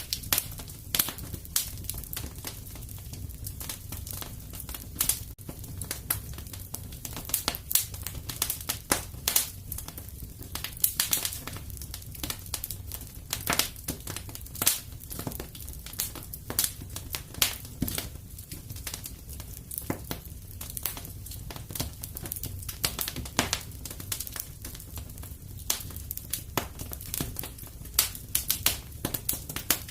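Wood fire crackling and popping: a dense, irregular run of sharp crackles and snaps over a low steady rumble of the flames.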